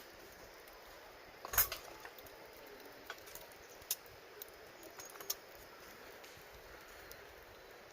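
Firewood burning in a campfire, crackling with scattered sharp pops, the loudest about one and a half seconds in, over a faint steady hiss.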